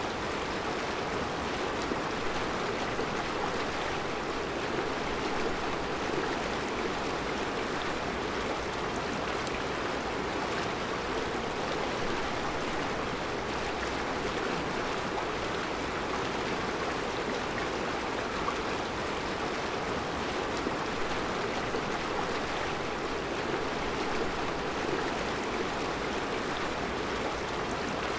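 Mountain river rushing steadily over round rocks in a rocky bed, a constant full, even water noise with no breaks.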